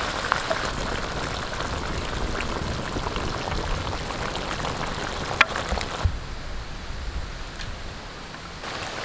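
Masala chicken sizzling and frying in a clay pot as it is stirred with a wooden spatula: the cooking liquid has cooked off, so it is now frying dry. One sharp click about five and a half seconds in, and the sizzle turns fainter from about six seconds in.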